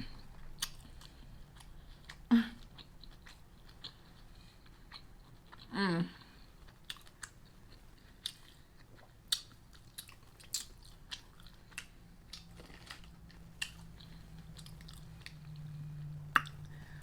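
Close-miked chewing and biting of crispy fried food: irregular crunches and wet mouth clicks, with a brief hum-like voice sound about six seconds in.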